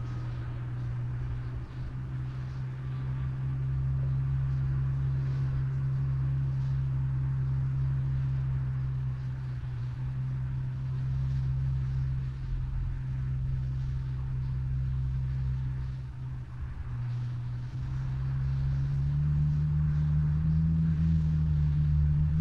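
Low, moaning wind with a steady deep drone under a faint hiss; the drone rises in pitch and grows louder near the end.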